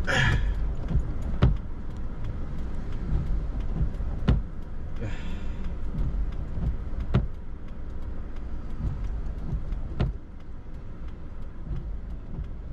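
Steady low rumble of a Toyota RAV4 heard from inside the cabin, with a short sharp knock about every three seconds.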